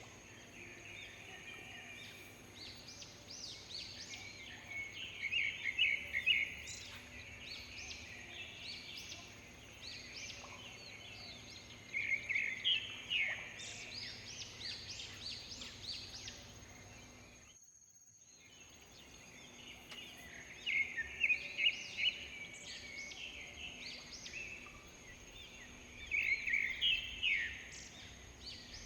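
Wild birds singing in repeated bursts of fast, high chattering notes over a thin, steady high tone. The sound drops out for about a second midway.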